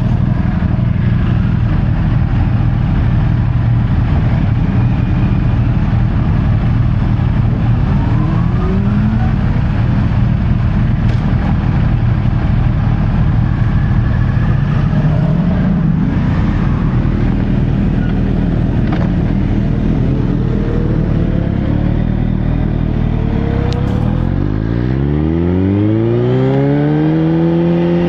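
Sportbike engine running steadily, then revving up near the end, its pitch climbing steeply before holding at a higher speed.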